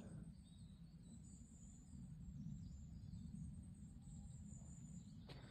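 Near silence: faint outdoor ambience, a low rumble with a few faint high chirps.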